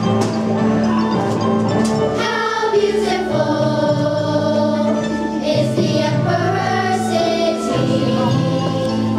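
Children's choir singing a song over instrumental accompaniment, the voices coming in about two seconds in.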